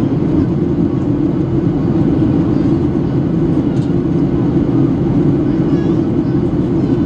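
Steady jet airliner cabin noise in flight: the constant hum and rush of the engines and airflow heard from inside the passenger cabin, even and unchanging.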